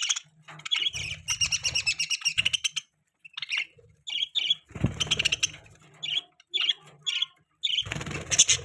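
Budgerigars chirping and chattering in quick, high runs of short notes, with brief gaps between them.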